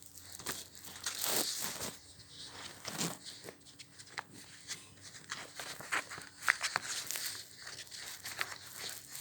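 A sheet of paper being folded diagonally and creased by hand: intermittent rustling and crinkling, with small scattered crackles and a denser rustle about a second in.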